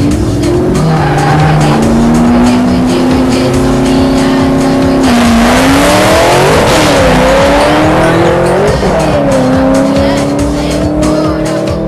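Drag-racing vehicle engine running under load with tyres squealing; about five seconds in a harsh squeal sets in over the engine, whose pitch dips and surges for a few seconds before climbing steadily again.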